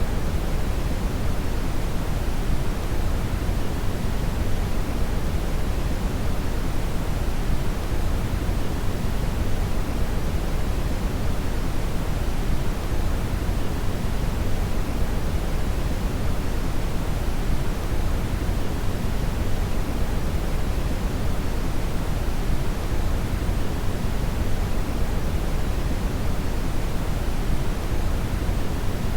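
Steady brown noise (red noise): an even, deep rushing hiss, strongest in the low end, with no changes.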